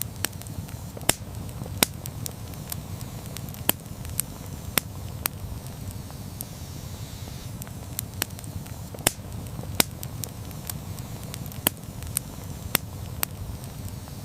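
Campfire burning: a low steady rush of flames with sharp, irregular crackles and pops of burning wood, several a second.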